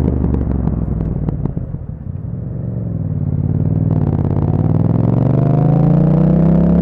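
2021 Yamaha MT-07's parallel-twin engine through an Akrapovic exhaust. It runs steadily, then drops off as the throttle closes, with a few short clicks about a second in. It then pulls back up, rising steadily in pitch as the bike accelerates.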